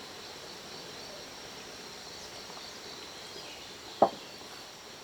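Steady high insect chirring in the background, with one sharp knock about four seconds in.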